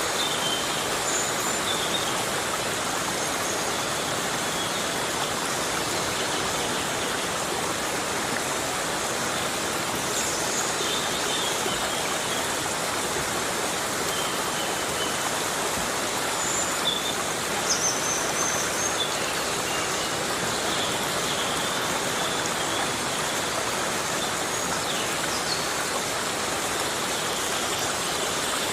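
Heavy rain falling steadily on forest foliage, an even unbroken hiss. A few faint, brief high-pitched chirps come through it now and then.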